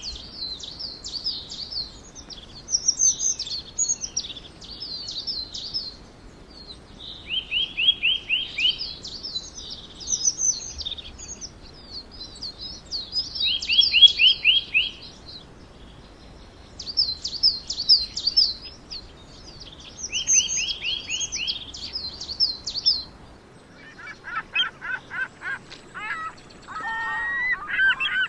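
A songbird singing the same phrase over and over, about every six seconds: a quick run of high notes followed by a higher, jumbled warble. Near the end the song gives way to a different, lower call with a honking, layered tone.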